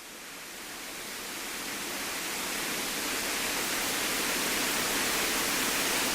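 Steady electronic hiss on a light aircraft's intercom/radio audio feed, slowly growing louder, with no engine tone coming through.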